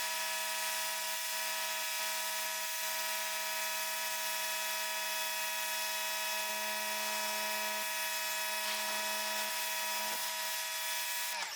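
Stanley electric pressure washer's motor and pump running with a steady whine, winding down near the end.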